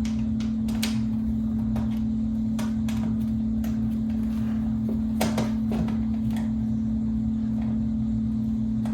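Scattered light clicks and taps of box fan parts being handled during reassembly, over a steady low hum.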